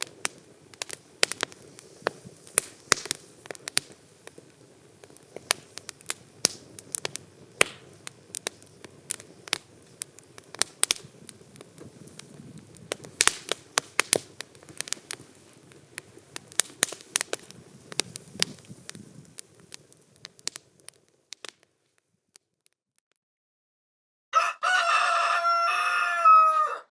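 Wood campfire crackling and popping with sharp irregular snaps, which stops about 21 seconds in. After a short silence a rooster crows once, loudly, for about two and a half seconds near the end.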